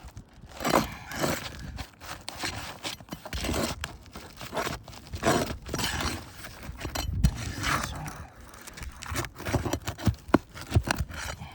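Asphalt roof shingles being lifted and worked loose, with irregular scraping and crackling and a few sharp clicks.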